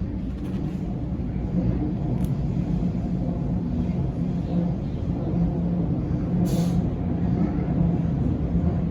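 Steady low rumble of a Waratah electric train in motion, heard from inside the carriage, growing slightly louder, with a brief high hiss about six and a half seconds in.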